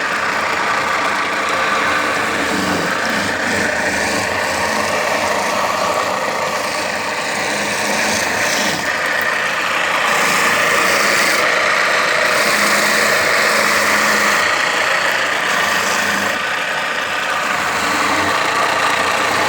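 Washing-machine motor driving a homemade fruit juicer, running steadily.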